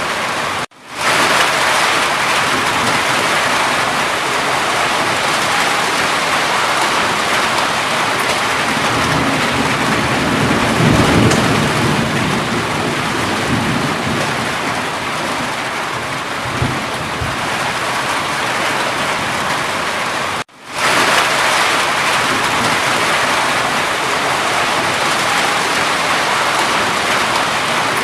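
Steady heavy rain falling, with a low rumble of thunder swelling up about halfway through. Twice the sound cuts out for an instant and quickly fades back in.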